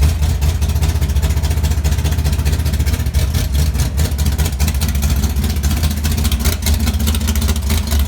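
1966 Dodge Dart drag car's freshly built 340 small-block V8 with W2 iron heads running loud and steady, with a rapid pulsing exhaust note: a mean-sounding engine.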